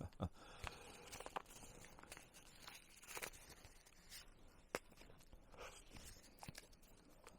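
Quiet handling noises: a few faint scattered clicks and soft rustles as something is wiped off and a trimmed food pouch and scraps are handled.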